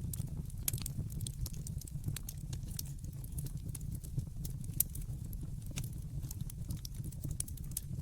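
Wood fire in a fireplace crackling: many sharp, irregular pops and snaps, several a second, over a steady low rumble of the burning fire.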